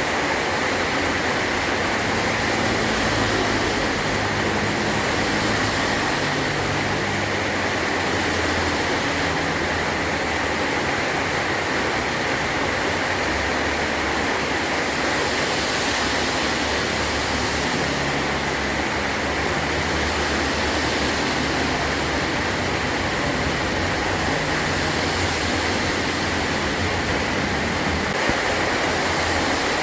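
Heavy rain falling steadily on a metal tin roof, a constant dense hiss with no breaks.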